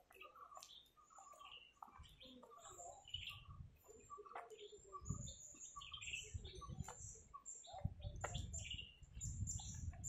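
Many small birds chirping and calling, short high notes overlapping, with a low rumble coming and going underneath from about five seconds in.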